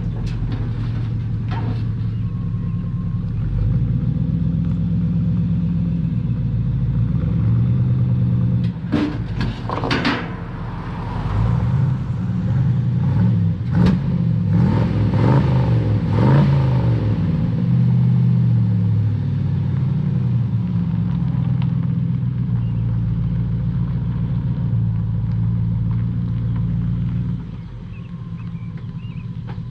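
Square-body pickup truck engine running with a low, steady drone; in the middle it revs up and down a few times with some knocks, and near the end it drops back quieter.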